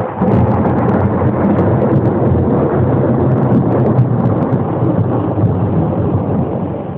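Loud thunder: a sudden clap as it begins, then a long rolling rumble that eases off in the last second.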